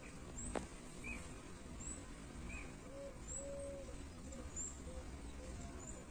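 Birds calling outdoors: short high chirps scattered throughout, and a run of low, even notes in the middle, one held longer than the rest. A single sharp click about half a second in, over a low background rumble.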